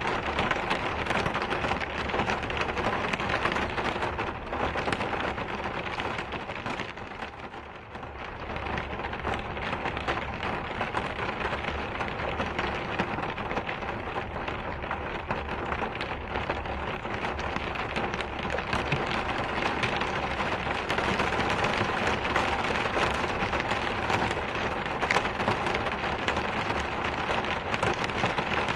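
Steady rain falling, a dense even hiss of drops. It eases briefly about seven to eight seconds in, then picks back up.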